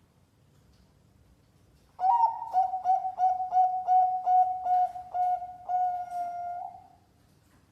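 Zebra dove (perkutut) singing a competition-style song: it starts about two seconds in with a quick run of short coos and ends in one long drawn-out coo.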